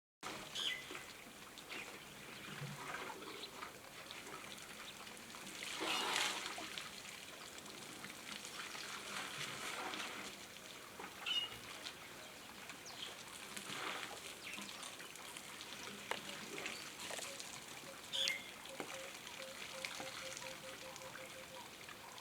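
Outdoor wildlife ambience with water trickling and scattered short bird chirps and calls. A louder rush of noise comes about six seconds in, and a quick even run of pulsed notes sounds near the end.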